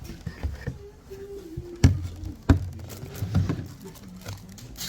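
Scattered sharp taps and light clicks, two louder knocks about two and two and a half seconds in, over low handling noise.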